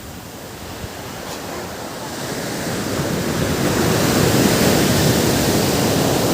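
Ocean surf washing onto a beach: a rush of wave noise that builds from about two seconds in and stays loud.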